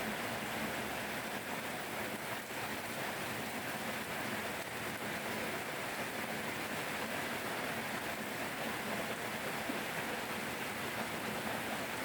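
Steady rain falling, an even, unbroken hiss of rain.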